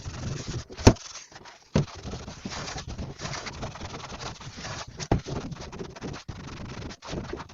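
Dishes being washed by hand: rubbing and scrubbing noise, with sharp clinks of crockery about a second in, just before two seconds and about five seconds in.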